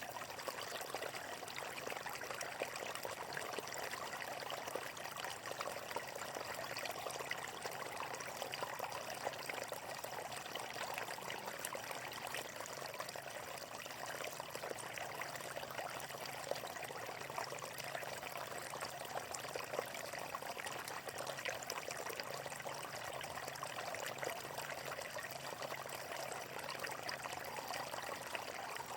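Flowing water trickling and splashing steadily and evenly.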